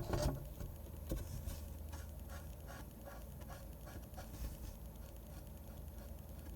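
Pen drawing on paper: a light knock at the start and another about a second in, then a string of short, faint strokes that die away after about four seconds, leaving a low room hum.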